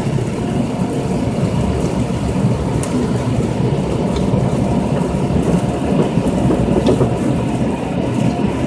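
Automatic car wash running: water spraying and drumming steadily on the car's body, a dense even rush with a few faint clicks.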